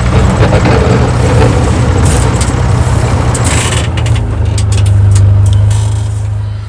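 A motor vehicle's engine runs steadily as a loud, low drone, with rumbling noise over it. The drone swells slightly about two-thirds of the way through.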